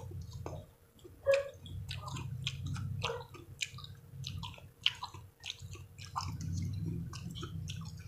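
Close-miked chewing of mango slices dipped in sautéed shrimp paste: wet smacking and squishing mouth clicks, several a second, over a low steady hum.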